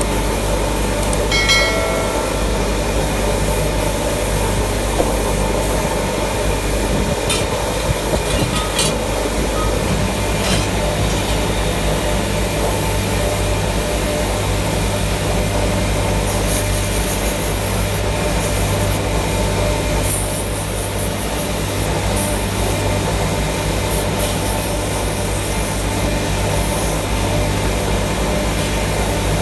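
Workshop machinery running with a steady low hum, with a few light metallic clicks and some scraping hiss over it.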